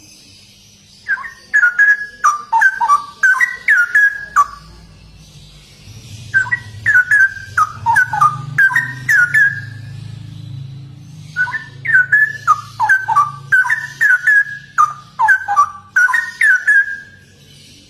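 Straw-headed bulbul (cucak rowo) singing: three bouts of loud, rapid whistled notes leaping up and down in pitch, each a few seconds long, with short pauses between.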